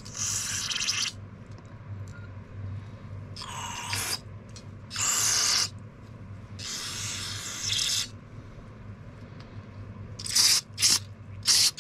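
Aerosol carb and choke cleaner sprayed in about seven short hissing bursts, cleaning out a small-engine carburetor. A steady low hum sits under it.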